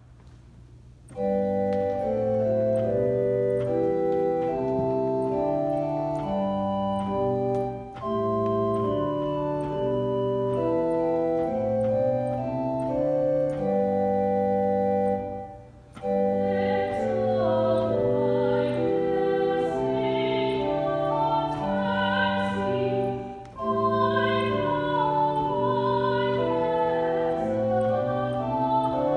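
Organ playing sustained chords in phrases, starting about a second in, with brief breaks between phrases.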